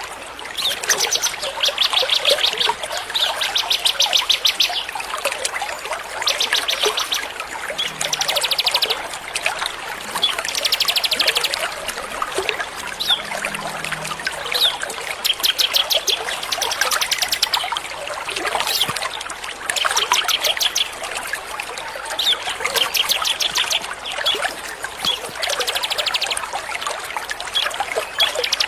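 A small songbird singing fast, rattling trills, each about a second long, repeated every second or two over a steady trickle of running water.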